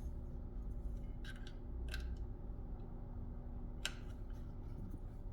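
Several sharp clicks and snaps: a pair about a second in, one at about two seconds, and one near four seconds, over a steady low hum.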